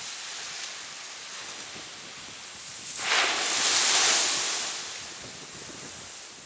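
Ocean surf washing on a beach, a steady hiss with one wave breaking loudly about three seconds in and fading away over the next two seconds.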